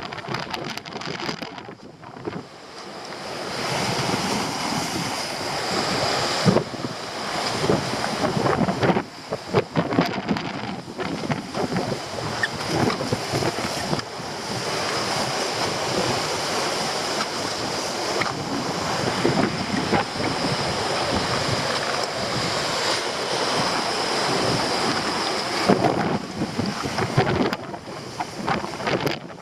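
Stormy sea surf breaking and rushing against rocks, mixed with strong wind buffeting the microphone; the noise swells and eases in surges, with short sharp knocks here and there.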